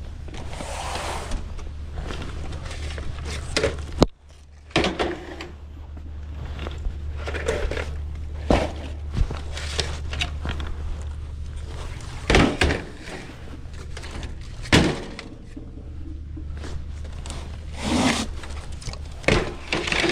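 A steady low hum with a series of separate knocks, bangs and clatters over it, the sharpest a hard bang about four seconds in, when the hum briefly drops away.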